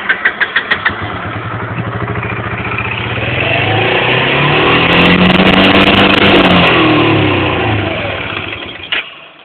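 Yamaha Grizzly ATV engine cranking on the starter for about a second, then catching and running, revved up and back down, and shut off near the end. The engine is hot from riding.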